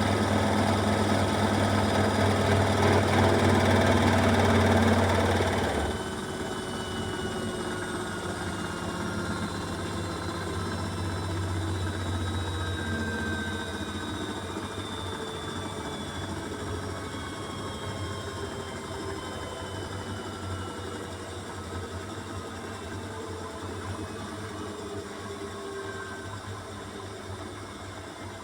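Beko WMY81283LMB2 washing machine on its final spin, running loud and rattling with an unbalanced load. About six seconds in the sound drops suddenly and the drum coasts down, its whine falling slowly in pitch.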